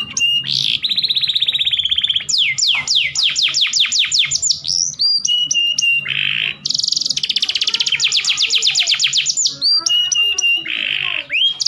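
Domestic canary singing continuously. The song runs through fast trills of repeated descending sweeps, held steady whistles and short buzzy rolls, switching from one phrase to the next every second or two.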